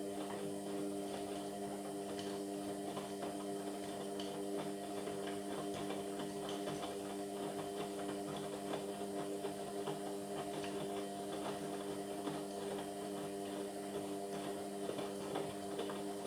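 Indesit MyTime washing machine running mid-cycle: a steady motor hum with a light scatter of clicks and rattles.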